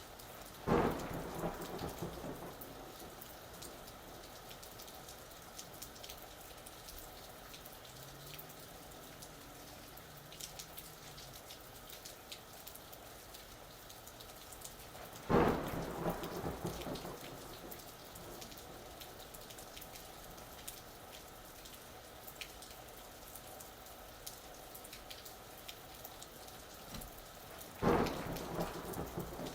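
Steady rain falling, with three sharp claps of thunder: one just after the start, one about halfway through and one near the end. Each clap starts suddenly and rumbles away over a second or two.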